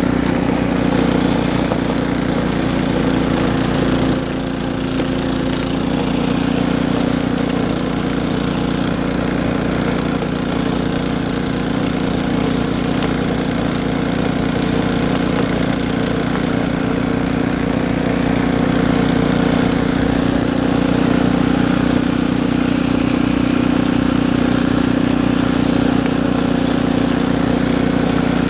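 Snowblower engine running steadily at constant speed, with a brief dip in level about four seconds in.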